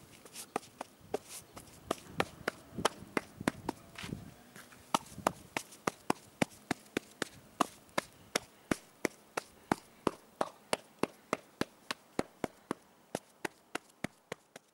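A run of sharp knocks, uneven at first with some lower rustling, then steady and regular at about three a second.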